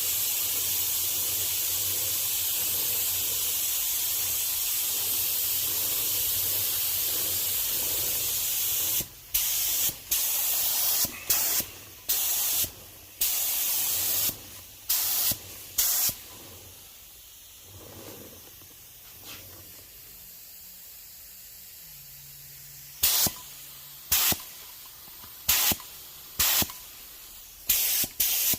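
Paint being sprayed: a steady hiss for about nine seconds, then many short spray bursts, each under a second, with pauses between.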